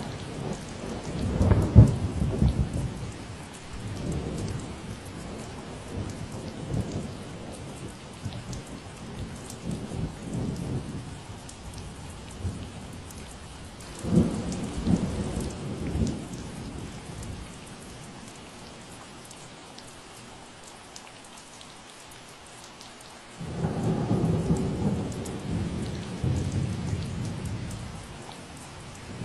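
Steady rain falling, with low rumbles of thunder rolling in again and again. The loudest comes about a second and a half in, and another sets in abruptly near the end.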